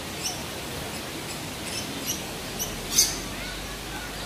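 Birds chirping: about five short, high chirps, the loudest about three seconds in, over a steady background hiss.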